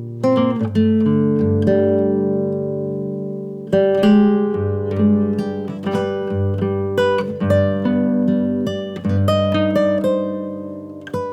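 Background music: acoustic guitar plucking notes and chords.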